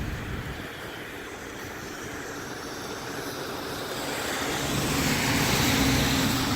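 A passing road vehicle outdoors: the hiss of tyres and the engine hum grow steadily louder over the second half.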